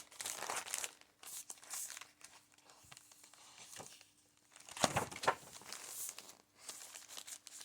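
Paper pages of a large handmade junk journal being turned and handled, crinkling and rustling, with a louder rustle about five seconds in.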